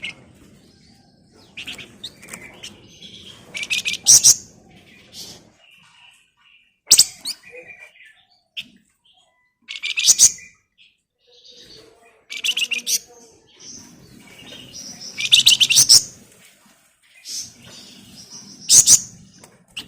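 Flamboyan songbird singing in short, dense rattling trills that come every two to three seconds, with softer thin chirps in between.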